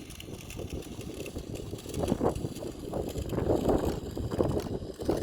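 Toy radio-controlled car running on a road, a noisy rumble of motor and tyres that swells about two seconds in and again toward the end, with wind on the microphone.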